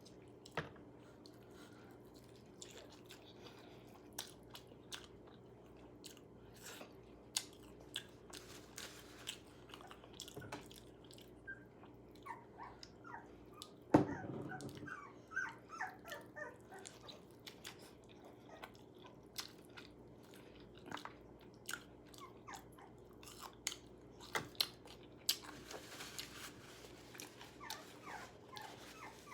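Crunchy chewing and biting of KFC fried chicken: many scattered sharp crunches, with one loud knock about halfway. Short high whines, like a dog's, follow the knock and come again near the end.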